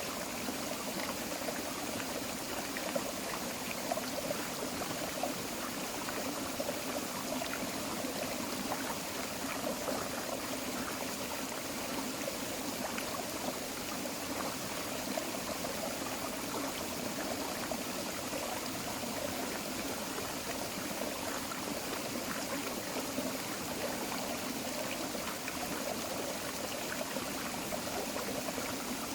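A tropical forest creek flowing steadily over rocks, with a continuous splashing and burbling rush of water.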